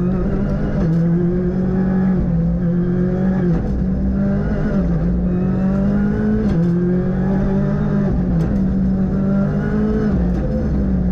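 Ford Fiesta R5 rally car's turbocharged four-cylinder engine running hard under load, heard onboard. Its pitch holds mostly steady but dips briefly several times, with a few sharp clicks about eight seconds in.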